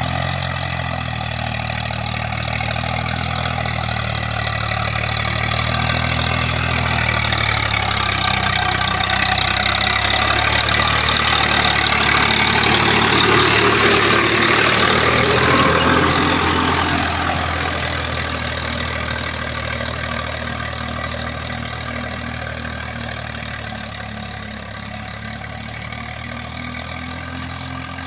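Walk-behind tractor's single-cylinder diesel engine running steadily. It grows louder toward the middle, then slowly fades.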